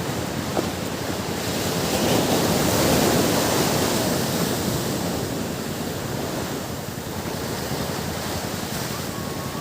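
Ocean waves on a beach: the surf swells and breaks, loudest about two to four seconds in, then washes out into a steady hiss.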